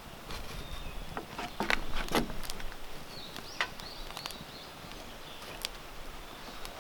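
A cluster of dry snaps and crackles about one and a half to two and a half seconds in, then a faint, high, wavering chirp a little after three seconds.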